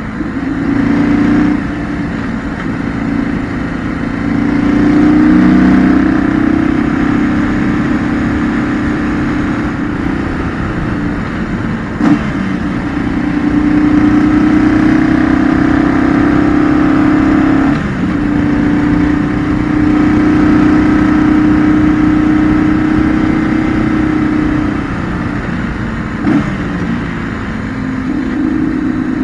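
2008 BMW R1200GS's air/oil-cooled boxer twin engine heard from the bike, pulling hard and easing off in turn through mountain curves, its note rising and falling with the throttle. Two brief clicks, about halfway through and near the end.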